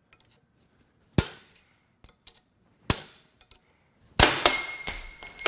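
Hand tools working on a broken steel connecting rod: two single sharp metal strikes, then a clatter of several hits with ringing metal near the end as the stuck rod piece is worked free of the crankshaft journal.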